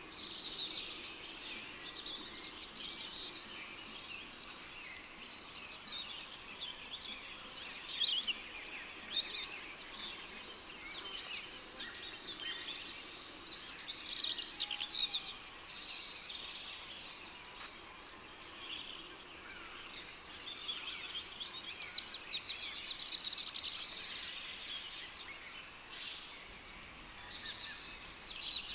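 Rainforest ambience: crickets chirping in a steady rapid pulse, pausing briefly twice. Bursts of quick, sliding bird calls come and go over the top.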